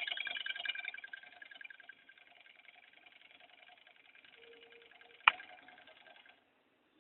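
Small model Stirling engine running, its moving parts rattling in a fast, even rhythm that turns fainter after about two seconds. A single sharp click comes about five seconds in, and the sound cuts off shortly after.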